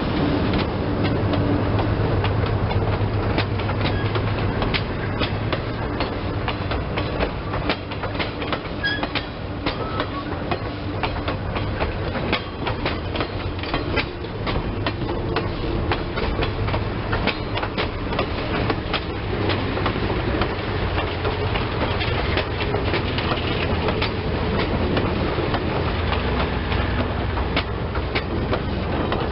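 Passenger train hauled by a GE C30-7 diesel locomotive running along the track: the wheels click over the rail joints continually above a low, steady drone.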